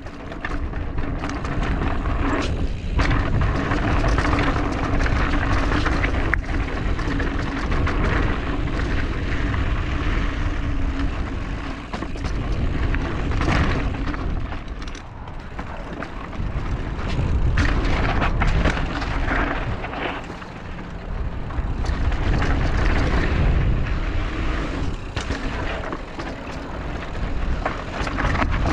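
Mountain bike riding a rocky dirt trail, heard through a GoPro mounted on the bike or rider: heavy wind rumble on the microphone, tyres running over dirt and rock, and repeated knocks and rattles as the bike hits bumps.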